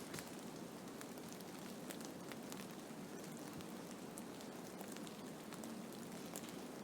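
Blizzard: a steady rushing noise of wind-driven snow, scattered with many faint ticks of it striking a surface.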